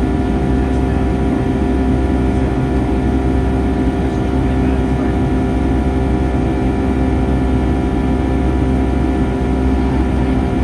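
Steady cabin noise inside a Boeing 757-300 in flight: constant engine drone and airflow rumble, with several steady engine tones running through it.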